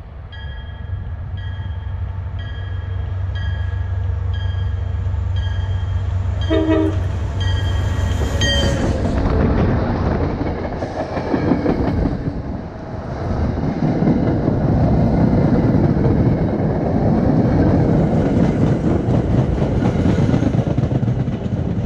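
Diesel-hauled MBTA commuter rail train approaching with a low engine hum and a bell ringing about once a second, and a short horn blast about six and a half seconds in. Then the train passes close by: the coaches roll over the rails in a loud, steady rushing clatter.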